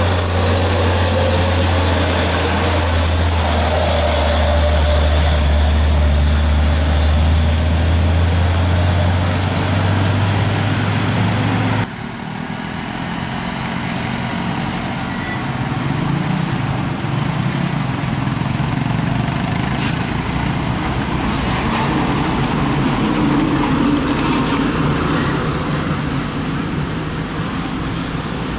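Heavy diesel truck engine running close by with a deep, steady drone. About twelve seconds in it cuts off abruptly, giving way to roadside traffic noise with trucks passing.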